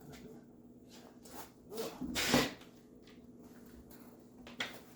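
Handling noises while working on a vehicle: a short rub about two seconds in, the loudest sound, and a sharp knock near the end, over a faint steady hum.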